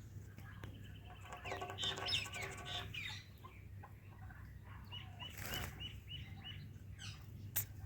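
Indian ringneck parrot flapping its wings while bathing. It gives a drawn-out call from about one and a half to three seconds in, and a quick run of short chirps about five seconds in.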